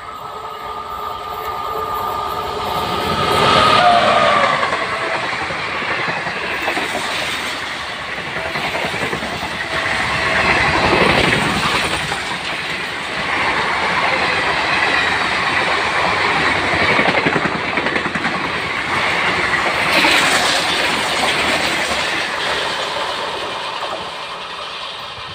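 Indian Railways express passenger train passing close at speed. A horn sounds with steady tones for the first few seconds, peaking about four seconds in. Then comes a continuous rumble and wheel clatter from the coaches rushing past, rising and falling in surges before fading near the end.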